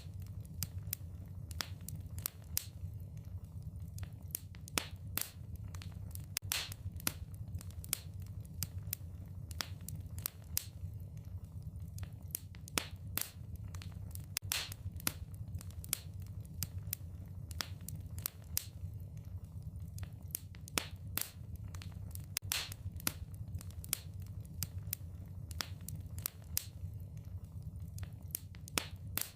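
Wood fire in a fireplace crackling, with irregular sharp pops and snaps of burning logs over a steady low rumble.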